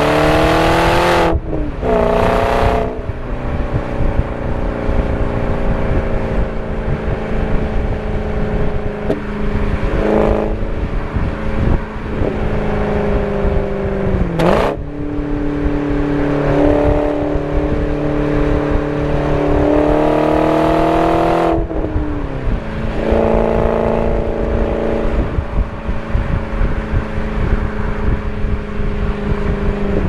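BMW 545i's 4.4-litre V8 with its muffler deleted, driving under load. It pulls up in revs at the start, then the pitch drops sharply as gears change about a second in, midway and again a little later, with steadier part-throttle running in between.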